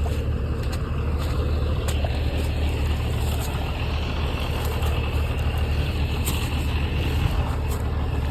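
Farm tractor engine running steadily with a deep, even hum; the owner says this tractor has been missing and suspects a voltage problem.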